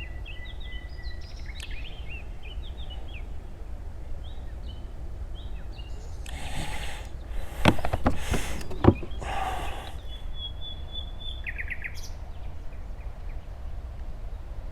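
Small birds chirping in short repeated calls over a steady low rumble. Around the middle comes a few seconds of louder rustling noise with three sharp knocks, then the chirping returns with a brief trill.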